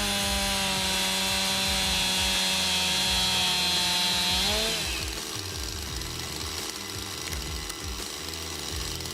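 Small saw engine running under load as it cuts through a log, its pitch sagging slightly. About four and a half seconds in, the pitch rises briefly as the cut frees, and the sound drops away to a quieter, noisier hum.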